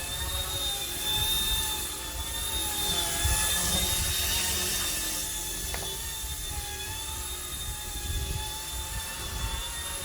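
Micro electric RC helicopter in flight: its small motors and rotors give a steady high whine that wavers slightly in pitch as the throttle shifts.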